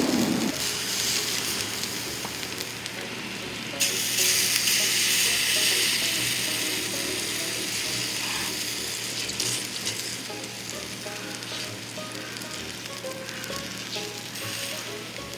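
Meat sizzling on a grill over a fire pit stand. The sizzle jumps sharply louder about four seconds in, then slowly dies down.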